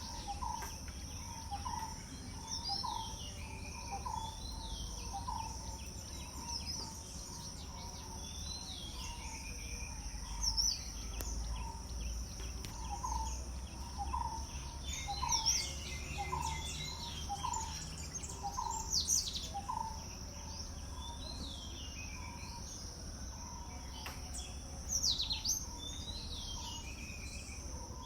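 Several birds chirping and calling at once over a steady high-pitched insect drone, with a short low note repeating about once a second and a low rumble underneath.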